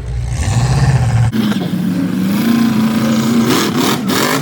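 Full-size pickup truck engines revving, the pitch rising and falling. The sound changes abruptly a little over a second in.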